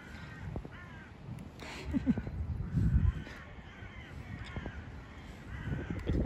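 A bird calling repeatedly in short calls, with a couple of low thumps about two and three seconds in.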